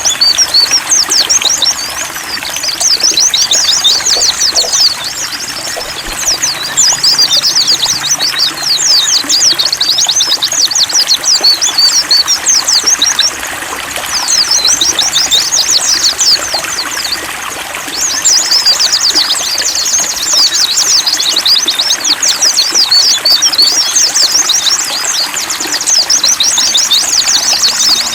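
White-eyes (pleci) singing a rapid, high-pitched twittering warble in long runs with short breaks, over a steady trickle of water.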